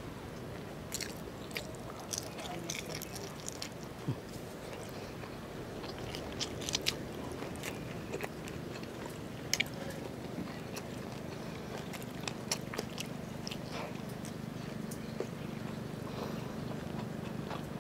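Close-miked chewing of lechon paksiw, stewed roast pork, and rice, with wet mouth clicks and small crunches coming irregularly over a steady low hum.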